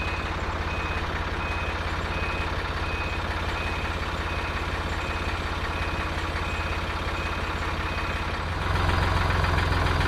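Forklift engine running while its reversing alarm beeps steadily, a little faster than once a second. Near the end the beeping stops and the engine revs up louder.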